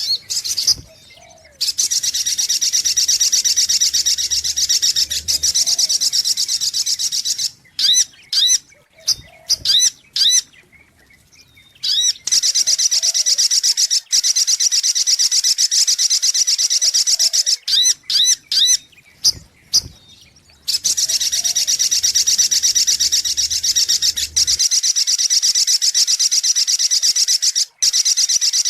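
Little spiderhunter (sogok ontong) calling: three long, rapid, high-pitched trills of about six seconds each, with short sharp chip notes in the gaps between them.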